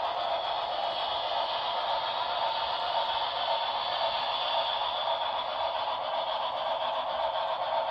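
Model Santa Fe Blue Goose steam locomotive and passenger cars running along the track: a steady whirring, rolling noise without pauses or changes.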